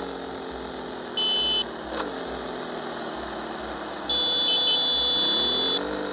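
Motorcycle engine running on the move, its pitch falling as it slows off the throttle and rising again near the end as it speeds up. A loud, high, steady electronic tone sounds briefly about a second in and again for nearly two seconds near the end.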